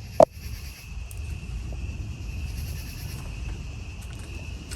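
One sharp knock about a quarter second in, then a steady high insect trill, cricket-like, over a low rumble.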